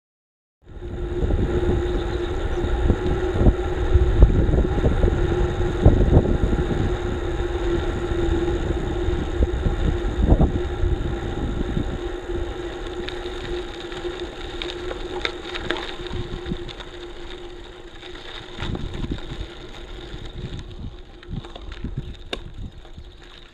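Rumble and irregular knocks of a bicycle ridden over a rough, bumpy track, picked up by an action camera on the bike, with a steady hum running through it. It gets a little quieter in the second half.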